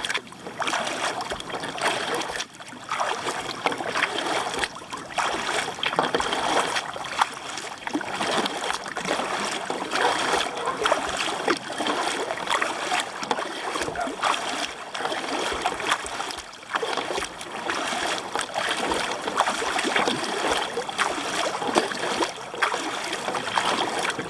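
Kayak paddle strokes splashing in a steady rhythm, with water rushing along the hull as the kayak is paddled hard.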